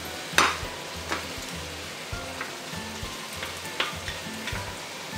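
Pork cheeks and carrots sizzling in oil in a pot while a wooden spatula stirs them, clacking against the pot a few times, loudest about half a second in.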